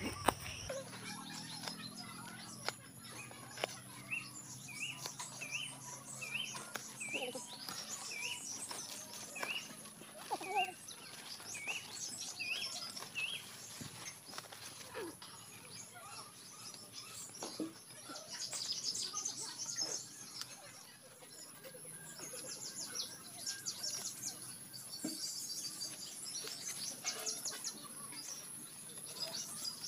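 Birds calling: one bird repeats a short, hooked note about every three quarters of a second for around ten seconds, and later come bouts of fast, high chattering, over a steady high hiss. Faint rustles and snaps from leaves being picked by hand.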